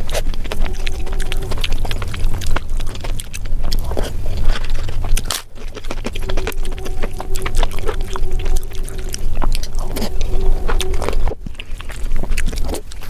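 Close-miked eating: a rapid run of wet mouth clicks and smacks from chewing food, with a faint steady tone underneath for a few seconds at a time.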